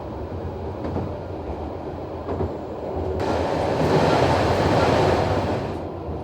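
Noto Railway NT100 diesel railcar running along the line: a steady low rumble with a few knocks. About three seconds in, a louder rushing noise comes in suddenly and dies away near the end.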